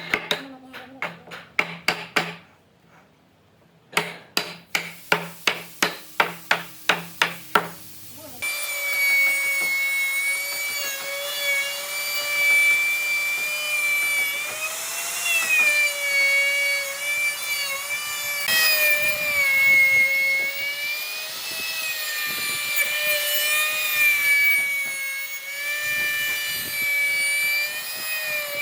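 Rapid, evenly spaced strikes on wood, about three or four a second, in two runs with a short pause between. About eight seconds in, a woodworking power tool starts and runs with a steady whine whose pitch wavers slightly as it works.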